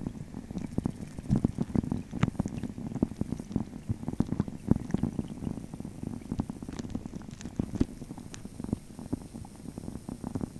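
Rain falling on a pond, heard from under the water: a dense, irregular patter of muffled low pops and clicks over a steady rumble.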